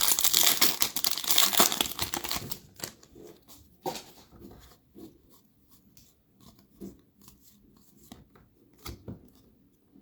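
Foil wrapper of a trading card pack crinkling and tearing open for about the first two and a half seconds, then faint scattered ticks and rustles of cards being handled.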